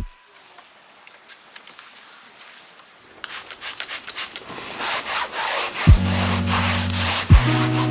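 Quick rubbing and scrubbing strokes of hand cleaning on a surface, starting a few seconds in. Background music with a bass beat comes in about two seconds before the end.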